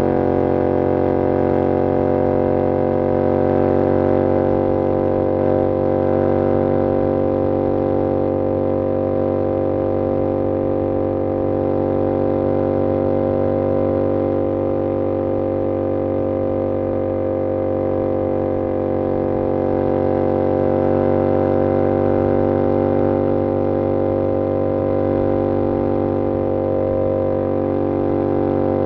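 2022 Yamaha R7's 689cc parallel-twin engine through an SC-Project CR-T exhaust, holding a steady engine speed as the bike cruises. It makes a constant drone with only slight swells in loudness.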